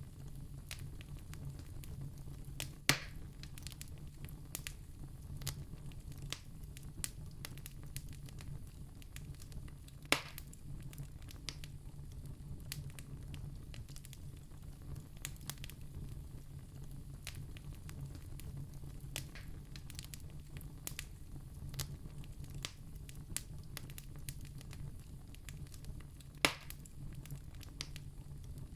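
Wood fire in a fireplace crackling steadily over a low, even rumble. Three much louder sharp pops come about three seconds in, about ten seconds in and near the end.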